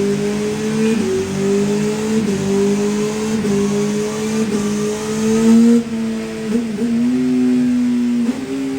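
Honda CBR600RR's inline-four engine through an Arrow full race exhaust, running hard with its pitch climbing steadily and dipping briefly about once a second, then holding roughly steady for the last few seconds.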